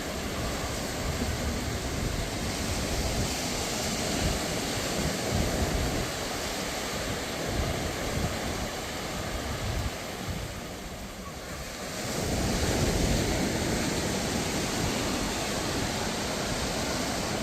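Sea surf washing onto a sandy beach in a steady wash of breaking waves, easing into a lull about ten seconds in before the next wave breaks and swells up again. Wind buffets the microphone.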